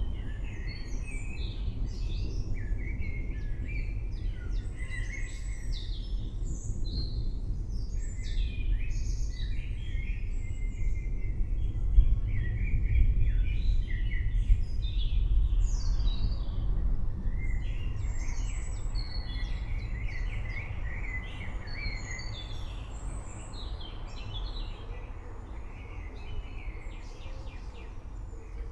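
Many birds chirping and singing in quick overlapping calls, over a steady low rumble that swells a little around the middle.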